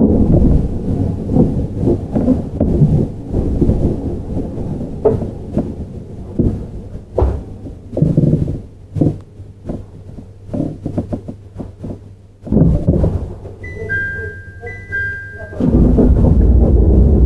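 Onboard running sound of a JR 701 series electric train: a low rumble with wheel thumps over rail joints that thins out and fades. Near the end a repeated two-tone electronic chime sounds, and then the loud rumble returns.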